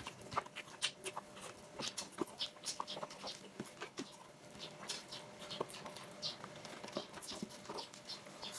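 Faint eating sounds: chewing and mouth smacks, heard as many small, irregular clicks.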